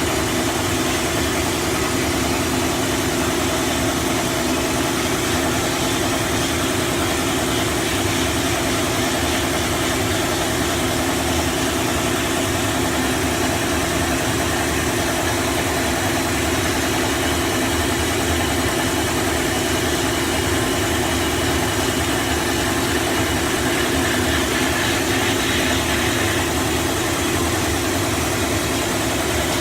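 A 7.5 hp Polar Air air compressor running steadily under a wide, even hiss from the vapor blast cabinet's air and slurry spray, with no change in pitch or level.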